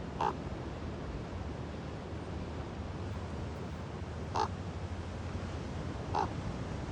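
Common raven giving three short, separate croaking calls a few seconds apart, over a steady low rush of background noise.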